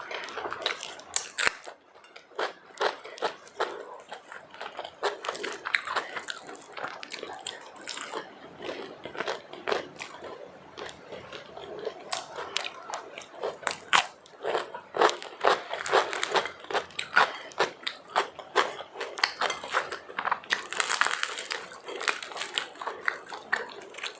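Close-miked eating: irregular crunchy bites and chewing with wet mouth clicks, the sound of pav bhaji and crisp pani puri being eaten.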